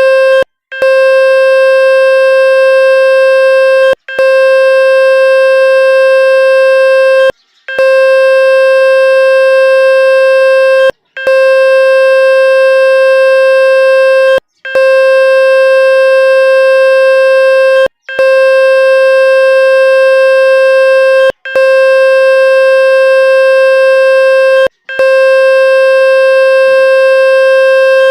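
Loud electronic buzzing tone held at one steady pitch, cut off briefly about every three and a half seconds and then resuming: a water-eject tone played to shake water out of a phone speaker.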